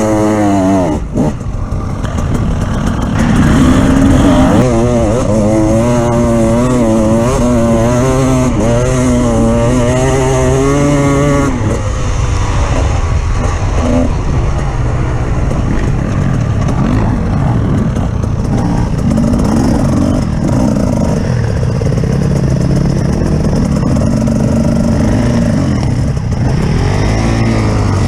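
Off-road vehicle engine running hard, its pitch rising and falling over and over for several seconds in the first half, then running rougher and more evenly.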